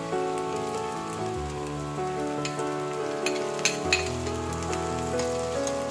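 Onions, ginger and garlic sautéing in a little oil in a stainless steel pot, with a light steady sizzle and a few sharp clicks about halfway through. Background music with sustained chords that change every second or so plays over it.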